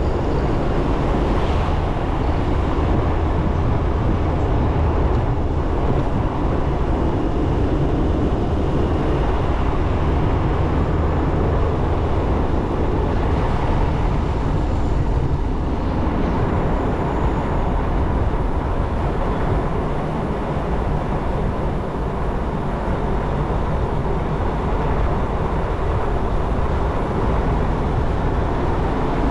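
Motorcycle on the move: steady engine and road noise throughout, with no sharp events.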